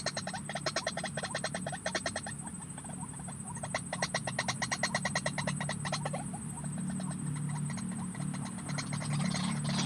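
White-breasted waterhen calling: rapid trains of croaking notes, about ten a second, in two bursts a couple of seconds long, then fading to fainter notes. A steady low hum and a high, thin whine run underneath.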